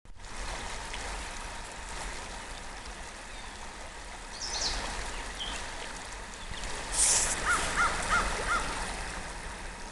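A stream runs steadily while a crow caws four times in quick succession near the end. A brief hissing burst comes just before the caws.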